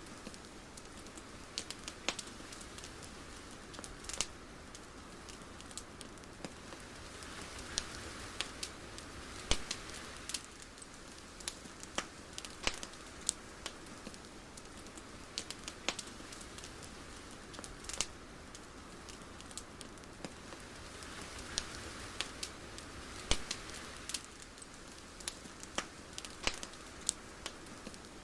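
Soft steady hiss with irregular sharp crackles and pops scattered through it, swelling gently twice.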